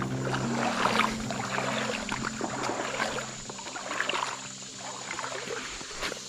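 Legs wading through shallow creek water, with irregular splashes and sloshing. Background music fades out in the first second or two.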